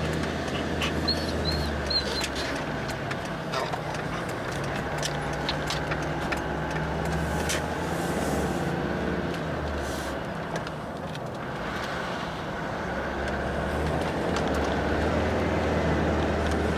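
2003 Kawasaki Z1000's inline-four engine running steadily at idle, getting a little louder toward the end.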